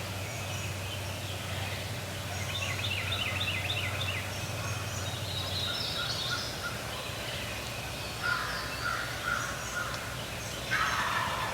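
A wild turkey gobbler gobbling more than once, the strongest gobble near the end.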